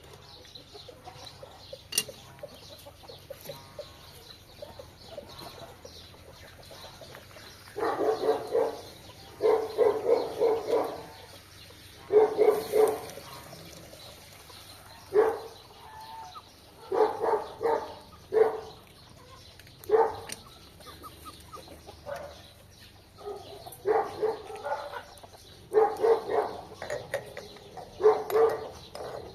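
Chickens clucking in a series of short calls, starting about eight seconds in and repeating every second or two, with a single sharp click about two seconds in.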